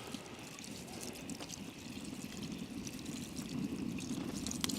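Water being poured into a cast iron pot, a steady low pouring that grows a little louder toward the end, with faint crackling over it.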